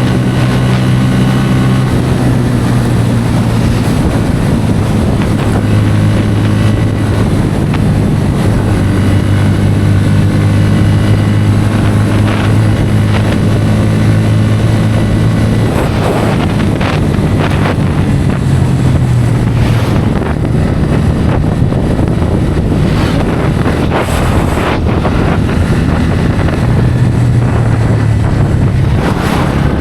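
Bajaj Pulsar N160's single-cylinder engine running at a steady highway cruise, with heavy wind rushing over the microphone. The engine note drops back for a few seconds past the middle and comes up again near the end.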